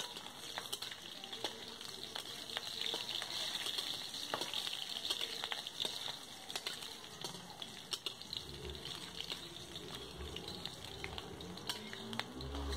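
Chopped garlic and green chillies sizzling in hot oil in a wok, with a metal spatula scraping and clicking against the pan as they are stirred. The sizzle is strongest in the first half and eases off later.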